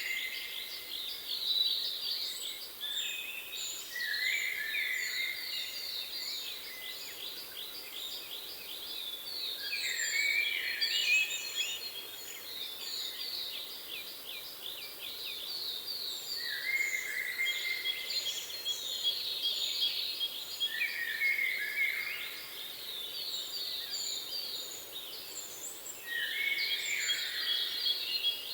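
Several songbirds singing continuously, with quick repeated chirping trills and shorter high notes overlapping one another, over a steady background hiss of wind.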